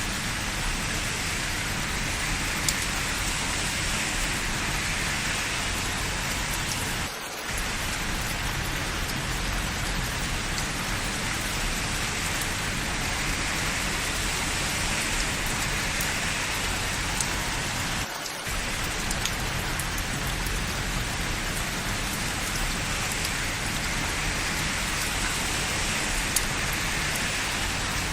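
Steady rain falling, an even hiss with now and then a sharper drop striking close by. The sound briefly dips twice, about 7 and 18 seconds in.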